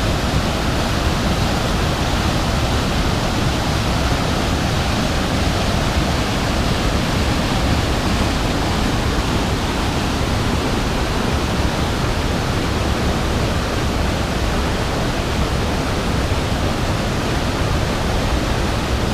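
Long Slide Falls, a waterfall on a river, rushing close by: a loud, steady roar of falling water.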